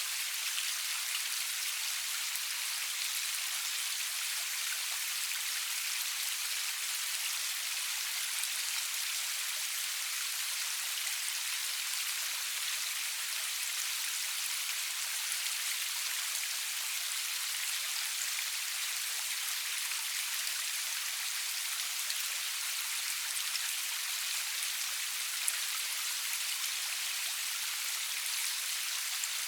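Steady rain falling, an even hiss with fine scattered drop ticks and no thunder; one slightly louder drop tick near the end.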